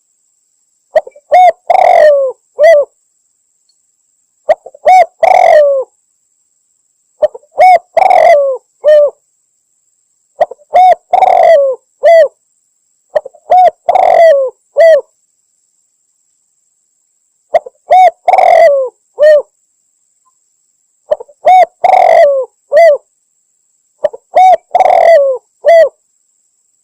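Spotted dove (tekukur) cooing: eight loud phrases of a few hoarse coos each, repeated every three seconds or so. It is a lure call, the female's call that hunters play to draw in a male.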